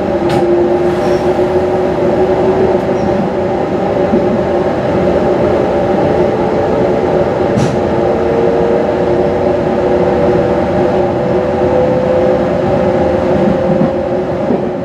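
Running noise of a JR 215 series double-deck electric train heard from inside the car: a steady rumble with a whine that rises slowly in pitch, and a couple of faint clicks.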